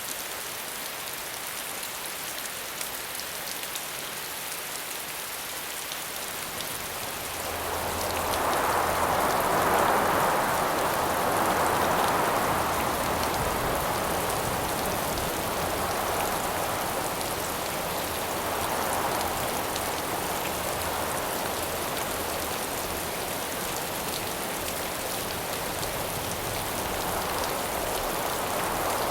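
Steady rain hiss. About a quarter of the way in, wind gusts swell in and then rise and fall in slow waves over the rain.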